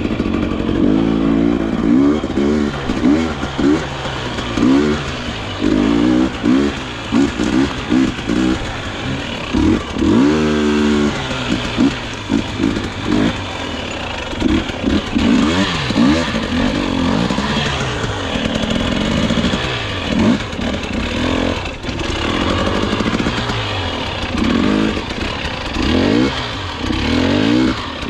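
Dirt bike engine revving up and down over and over with short bursts of throttle, as the bike is ridden over rough enduro trail.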